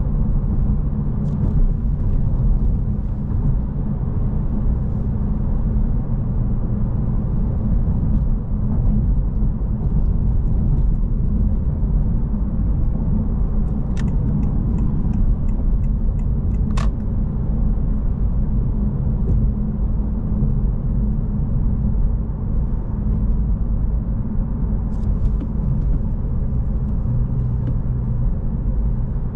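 2025 Honda Civic Si's 1.5-litre turbocharged four-cylinder running while the car drives, a steady low engine and road rumble. A few short sharp clicks a little past halfway.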